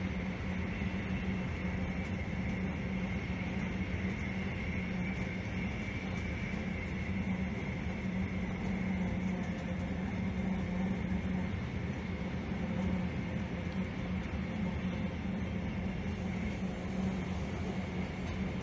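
SJ passenger train running steadily along the track: an even rail rumble with a constant low hum and a faint high whine.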